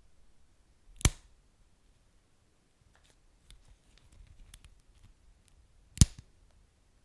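Wood fire crackling: two sharp pops, about a second in and again about six seconds in, with faint scattered ticks between them.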